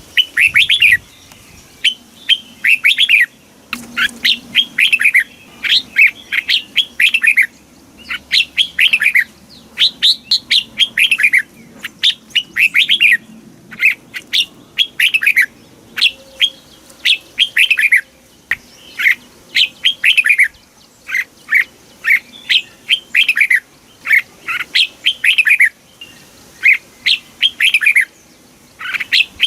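Red-whiskered bulbul singing: short phrases of quick, falling notes repeated over and over with brief gaps between them.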